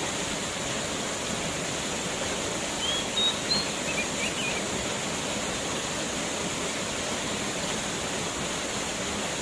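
Waterfall rushing steadily, with a few short high chirps about three to four seconds in.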